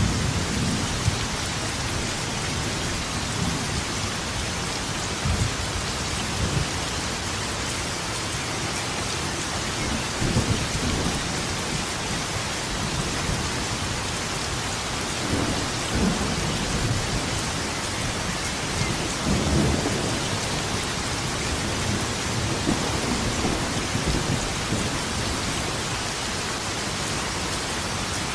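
Thunderstorm: steady rain hissing, with low rumbles of thunder rolling in several times, the strongest about twenty seconds in.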